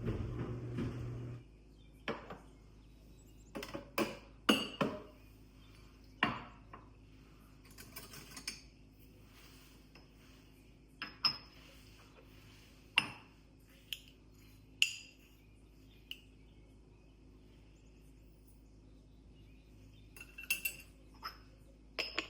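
Dishes and cutlery clinking and knocking at irregular intervals as they are handled, some strikes ringing briefly. A steady running noise with a low hum cuts off about a second in.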